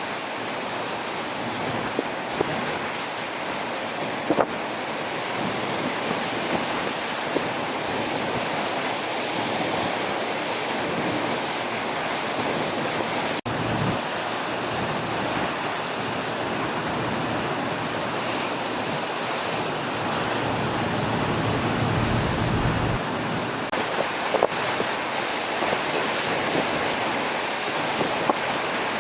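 Surf washing onto a lakeshore beach in strong wind, with wind buffeting the microphone; a stronger gust rumbles on the microphone about two-thirds of the way through.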